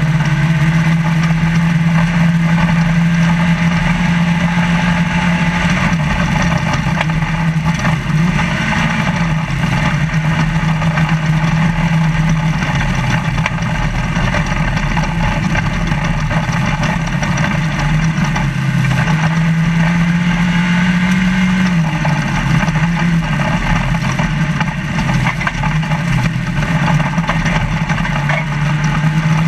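Trophy Lite off-road race truck's engine running hard at a steady pitch, heard from inside the cab, wavering and changing pitch twice as the revs come off and back on. Constant road and chassis noise from the truck driving over desert terrain runs underneath.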